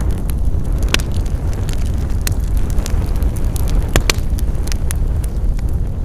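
Wood fire burning with a steady low rumble and irregular sharp crackles and pops, the loudest pops about a second in and near four seconds.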